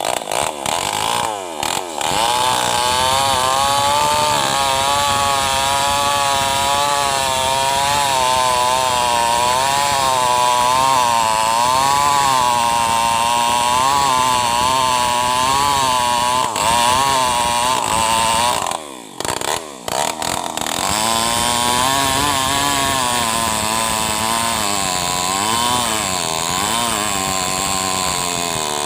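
New West 588 two-stroke chainsaw running at high revs, cutting into a mahogany trunk, its pitch wavering up and down under load. The revs drop briefly twice, near the start and about two-thirds of the way through, then climb again.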